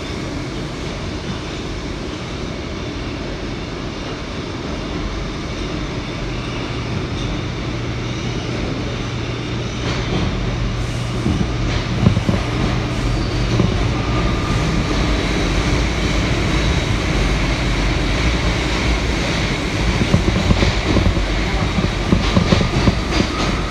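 R179 subway train running, heard from inside the car: a steady rumble of wheels on rail with scattered sharp clicks from the track, growing gradually louder.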